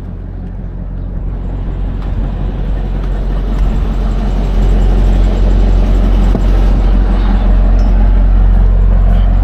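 Semi truck's diesel engine heard from inside the cab as the truck pulls away, growing louder over the first four or five seconds and then running steadily.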